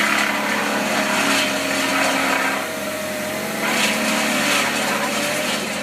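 Tree-removal machinery running: a steady engine hum with a slightly wavering whine, and surges of louder noise every second or so.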